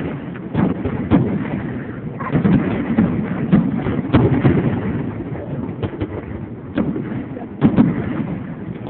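Aerial fireworks going off: a string of sharp bangs roughly a second apart, with a low rumble between them.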